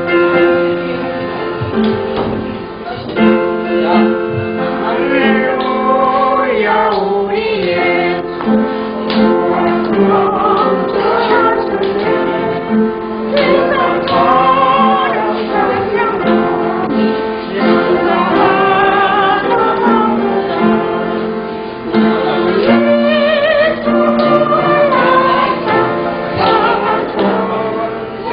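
Church praise song (찬양) sung with wavering, vibrato-laden voices over steady held chords from a keyboard accompaniment.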